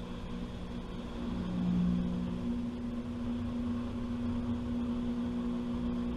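Washing machine running, heard from inside the drum: a steady motor hum of several tones that swells about a second and a half in and then holds steady.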